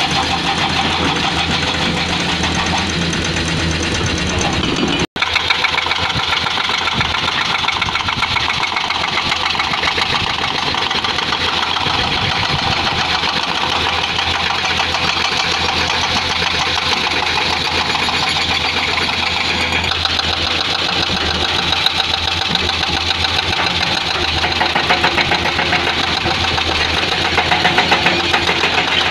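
Excavator-mounted hydraulic breaker hammering rock in rapid, steady blows over the excavator's running diesel engine, with a brief break in the sound about five seconds in.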